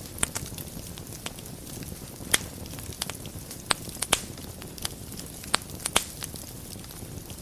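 Wood fire in a fireplace burning with a soft steady rush, broken by scattered sharp crackles and pops, the loudest about two and a half seconds in and a cluster between roughly four and six seconds.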